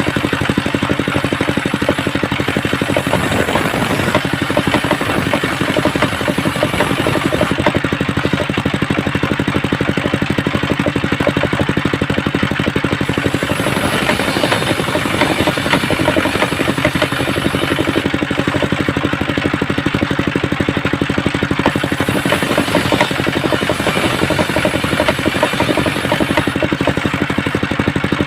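Engine-driven homemade circular saw running, its engine firing steadily, with the blade ripping waru wood.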